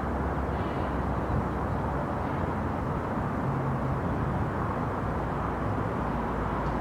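Tuned, turbocharged Audi A4 running steadily through an AWE Touring quad-tip exhaust: an even low drone with no revving.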